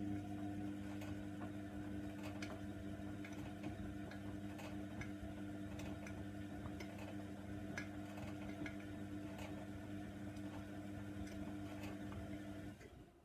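Hoover Nextra washer dryer's motor running with a steady hum and irregular clicking, then stopping near the end.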